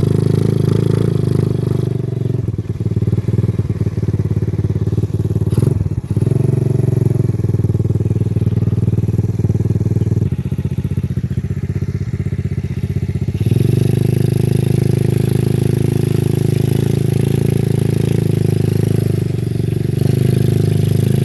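125cc single-cylinder four-stroke clone engine on a small ATV, running at low speed while the quad is ridden. The engine note turns fuller and louder about two-thirds of the way in.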